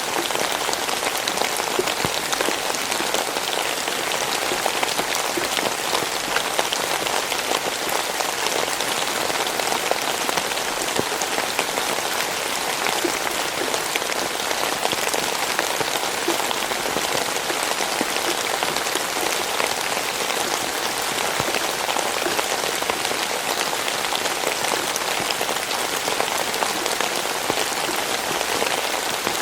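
Steady rain falling, a dense even patter of drops on a surface with many fine individual drop ticks.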